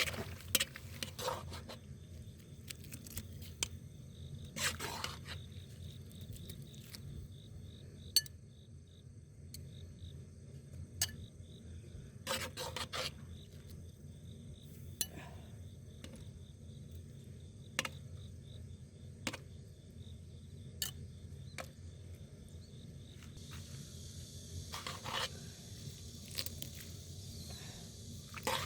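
Scattered clinks and knocks of utensils against a pot and dishes, over a steady low rumble and a faint high insect chirring.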